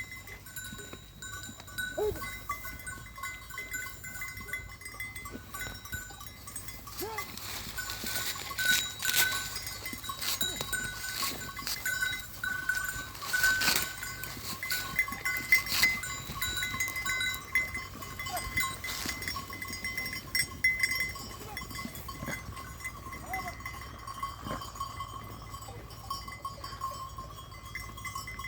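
Bells on a flock of sheep ringing steadily as the animals move and feed, mixed with many sharp crunching clicks from the sheep eating apples, busiest in the middle stretch.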